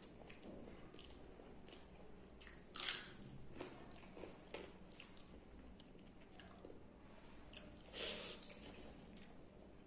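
Close eating sounds of a person eating basi pakhala (watery fermented rice) with fried bitter gourd: soft wet chewing with many small clicks, and two louder bites, about three seconds in and again about eight seconds in.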